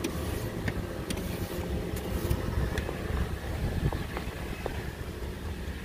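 A car engine idling with a low steady rumble, with faint scrapes and taps against the snow-covered car body.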